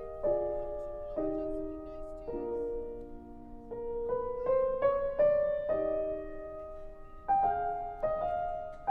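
Piano music: slow struck chords, with a short rising run of single notes about four to five seconds in.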